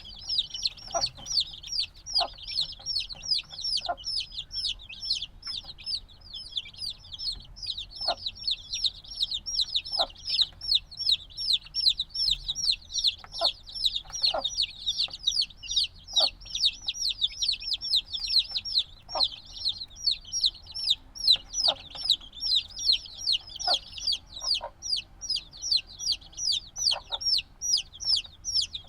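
A brood of chicks a few days old peeping without pause: many high, downward-sliding peeps overlapping several times a second, with short lower calls every second or two among them.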